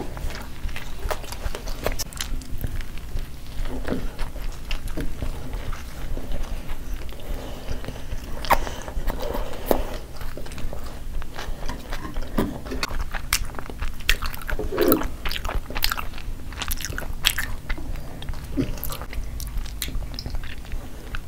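Close-miked mouth sounds of people biting and chewing pizza, with many short wet smacks and clicks and some crunch.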